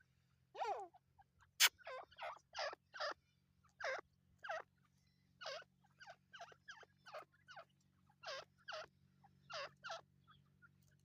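Teetar partridges calling: a rapid run of short, sharp, down-sweeping notes, about two a second.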